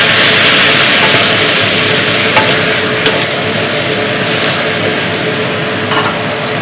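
Whole raw shrimp sizzling loudly in hot oil in a wok just after going in, the sizzle easing slowly as they are stirred. There are a few light knocks of a wooden spatula against the pan.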